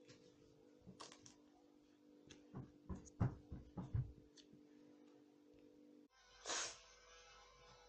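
A run of soft thumps and knocks in a small room, irregular and faint, over a faint steady hum that cuts off about three-quarters of the way through. A single short rustle comes right after the hum stops.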